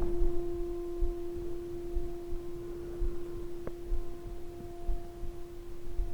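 A single steady, unwavering tone held throughout with fainter higher overtones, one of the eerie unexplained noises heard in the mountains.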